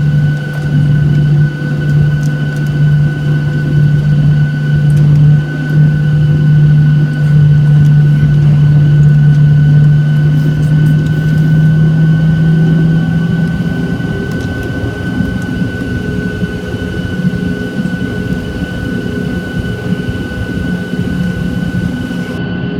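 Boeing 737-800 cabin noise: its CFM56 engines run steadily, with a loud low drone and a few fixed higher tones over a rushing background. About 13 seconds in, the drone shifts slightly higher and the overall sound softens a little.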